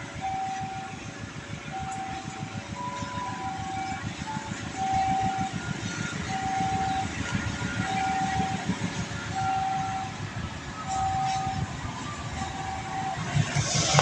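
Level crossing warning signal sounding a short repeating tone about every second and a half, over the low rumble and rapid clatter of a container freight train passing. Near the end a louder, harsher noise joins in.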